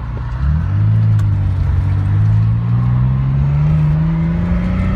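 Nissan 300ZX twin-turbo 3.0-litre V6 accelerating under full throttle. The engine note climbs steadily through one gear from about half a second in, then falls away at the very end for a shift. The car seems to be making no boost, which the occupants think could be a vacuum leak.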